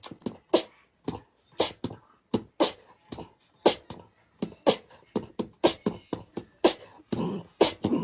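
A dry percussive beat without melody: a strong hit about once a second with lighter hits between, in the manner of beatboxing.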